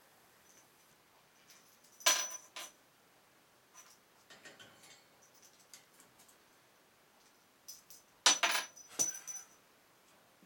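Small metal toy bell jingling as the budgie knocks it, in two short bouts a few seconds apart, with faint tapping between.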